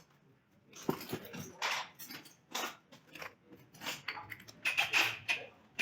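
A run of irregular clicks and knocks, about a dozen over several seconds, with a brief high squeak near the end.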